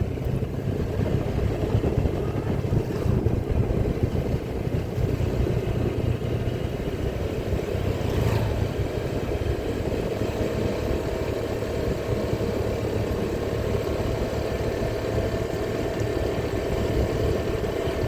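A vehicle's engine running steadily on the move, with a constant low hum under road and wind noise.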